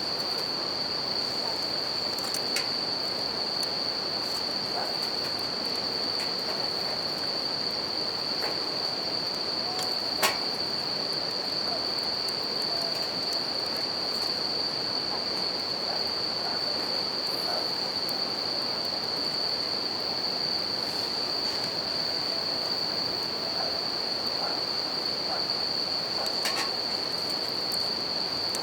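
Wood campfire crackling with scattered sharp pops, the loudest about ten seconds in, over the steady rush of a river and a continuous high chorus of bell crickets (suzumushi).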